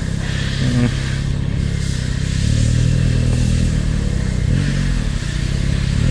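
Yamaha MT-09's three-cylinder engine running at low speed under light throttle, the pitch rising and easing slightly as the motorcycle rolls along slowly.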